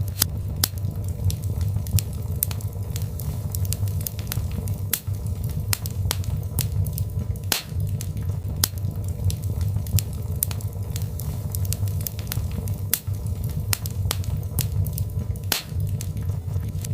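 Birchwood fire crackling in a fireplace: irregular sharp pops and snaps, several a second, some louder than others, over a steady low rumble of the flames.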